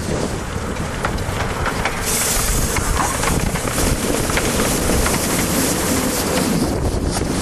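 Miniature 15-inch gauge railway train running along the track, with wind on the microphone; the noise grows louder and hissier about two seconds in.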